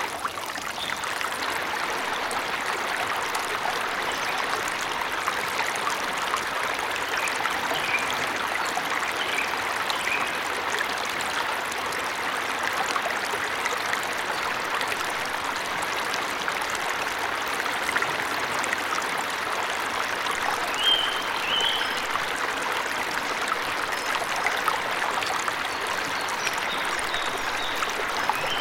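Steady rush of a forest waterfall, with a few short high bird chirps now and then.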